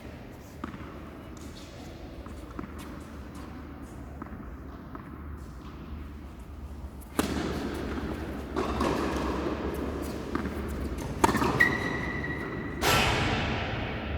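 Tennis balls struck with rackets: a few faint hits, then sharper, louder hits in the second half with a rise in background noise between them.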